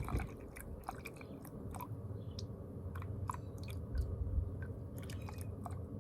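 Faint, scattered small clicks and crackles from handling a paint mixing cup and hardener bottle while hardener is measured into clear coat on a scale, over a low steady background rumble.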